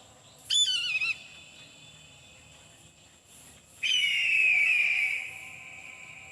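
Eagle calling twice with high whistled screams: a short wavering call about half a second in, then a longer call a few seconds later that slides slowly down in pitch and fades.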